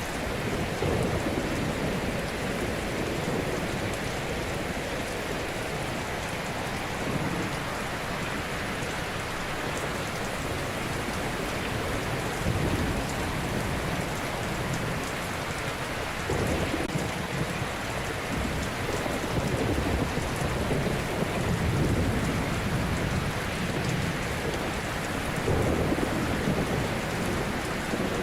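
Ocean surf: a steady wash of water with low rumbling swells as waves break every few seconds.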